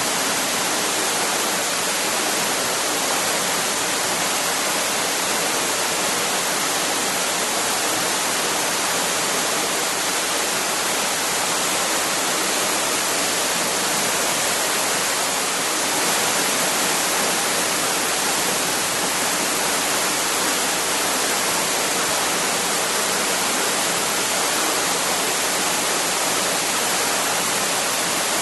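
Waterfall: a steady, unbroken rush of falling water, even hiss without any change.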